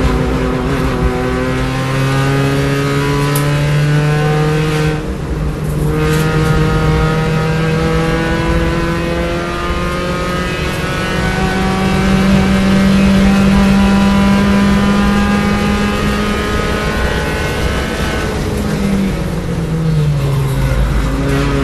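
B-Spec race car's small four-cylinder engine heard from inside the car at full throttle on track. It pulls with rising revs, eases briefly about five seconds in, then holds high revs, and the revs drop off near the end as the car slows for a corner.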